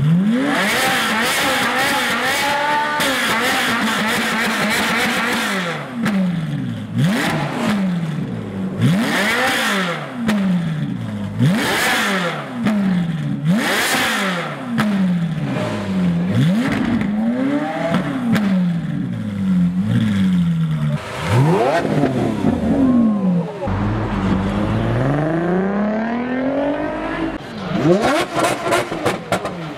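A car engine revved hard over and over, its pitch climbing and falling about once a second. After twenty-odd seconds comes one slower, longer rev, then a quick run of sharp exhaust cracks near the end.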